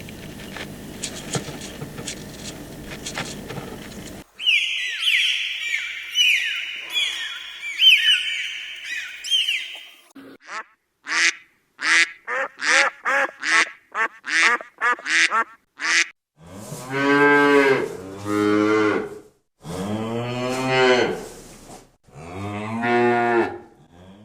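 A run of animal calls. First a hiss with faint clicks, then a string of high calls that each fall in pitch, then a quick series of short calls. It ends with four long, low lowing calls from cattle, each rising and falling in pitch.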